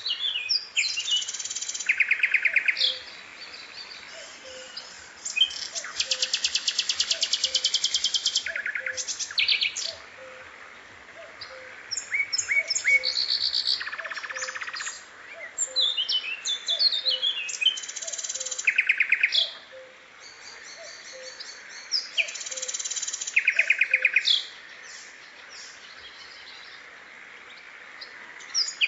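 Recorded songbird calls and songs on a bird-tutoring (masteran) track: loud, rapid, high trills lasting one to three seconds repeat every few seconds, with shorter chirps and whistled notes between them and faint, evenly spaced low pips underneath.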